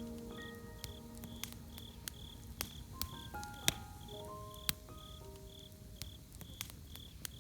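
Campfire crackling with irregular sharp pops, over crickets chirping in an even pulse of about two chirps a second. Soft, sparse melodic music plays underneath, thinning out in the middle and picking up again near the end.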